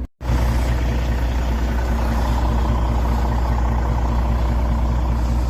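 Truck engine running with a steady low drone, cutting in just after a brief break at the start.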